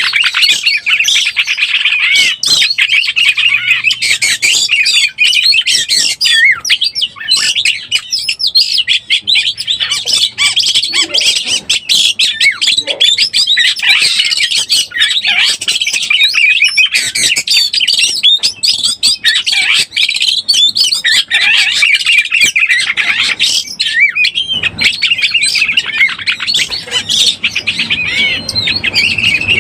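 An Oriental magpie-robin in breeding condition singing without a break: a rapid, varied stream of high whistled and gliding notes mixed with sharp clicking notes.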